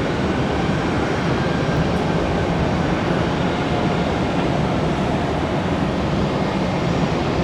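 Steady roar of jet airliner engines, an even rushing sound with a low hum underneath.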